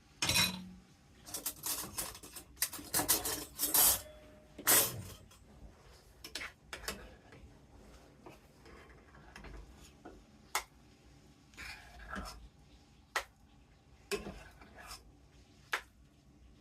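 A spoon scraping and clinking against a pot and bowls as cooked oatmeal is dished out, busiest in the first few seconds and then in sparser clinks.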